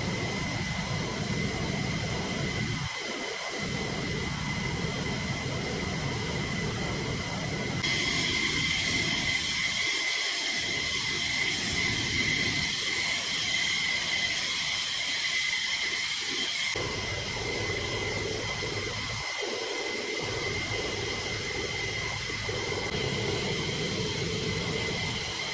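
Jet fighter engines running: a steady turbine whine over a rushing hiss, changing abruptly twice as the footage cuts between shots.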